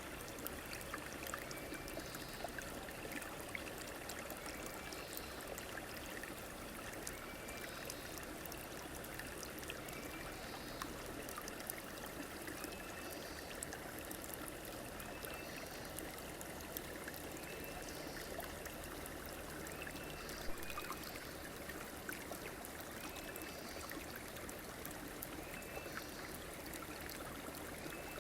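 River water flowing steadily, a continuous rushing trickle. A short high call repeats about every two seconds over it, and a single click sounds about two-thirds of the way through.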